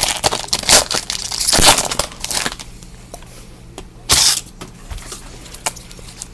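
Packaging crinkling and crackling as it is handled, in irregular bursts, the loudest about a second and a half in and about four seconds in.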